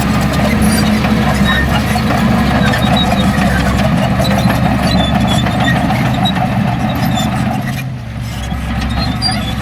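Heavy diesel machinery engine running steadily, easing off briefly about eight seconds in.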